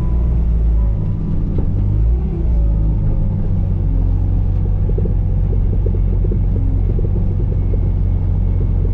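Bobcat T595 compact track loader's diesel engine running steadily with a low rumble while grading dirt. It swells and wavers over the first two or three seconds, then settles to an even drone.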